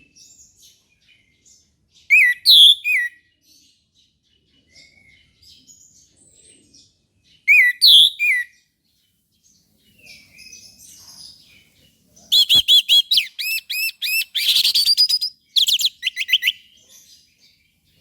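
Orange-headed thrush singing. Short, loud two-note phrases come about every five seconds, with soft twittering between them. Then, about twelve seconds in, a rapid run of repeated notes lasts about four seconds.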